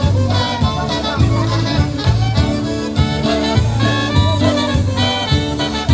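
Live polka band playing an instrumental stretch of a Polish-style polka between sung verses, with a steady bouncing beat of bass notes and drum hits.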